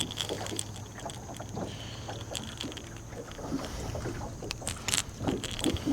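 Steady low hum of a boat motor, with scattered small clicks and knocks of handling in the boat and a few sharper knocks near the end.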